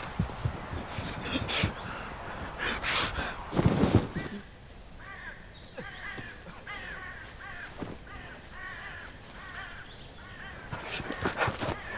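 Thuds and rustling of someone running through grass and undergrowth. After about four seconds this gives way to a bird calling over and over in short caws, roughly two a second, with a few more thuds and rustles near the end.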